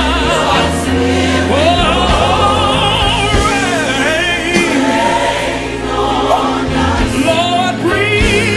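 Gospel song with a choir and lead vocal singing long melismatic runs with heavy vibrato over sustained bass and keyboard chords.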